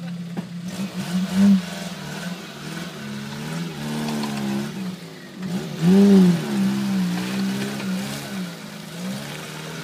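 Off-road vehicle's engine revving up and down repeatedly as it works through the course, loudest with a rising-then-falling rev about six seconds in.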